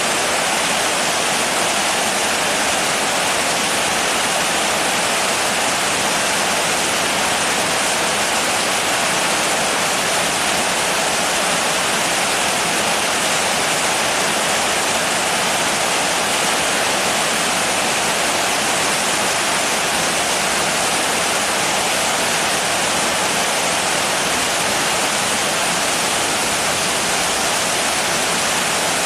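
Rain falling steadily, an even hiss with no single drops or changes standing out.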